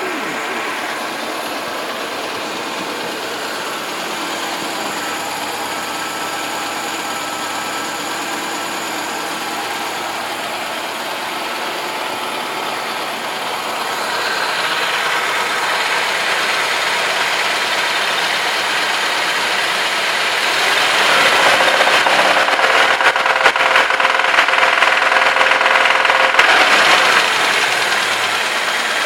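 Moskvich 2141 car engine running with a knock in it. The revs rise about halfway through, go higher for several seconds near the end, then fall back.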